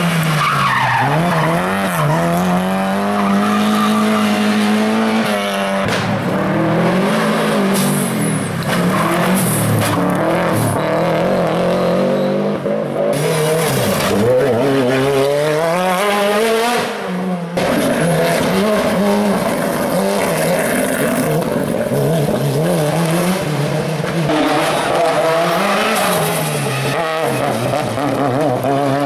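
Race car engines revving hard, the pitch repeatedly climbing and dropping through gear changes and lifts, with tyres squealing and skidding on the tarmac.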